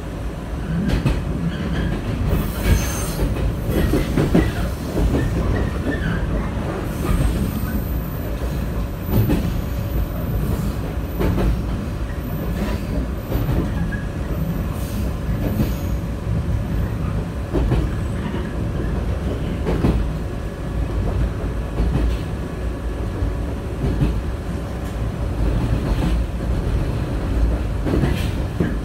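Running sound inside a JR West 123 series electric railcar at speed: a steady low rumble with irregular knocks of the wheels over rail joints, and a thin high wheel squeal now and then, mostly in the middle of the stretch.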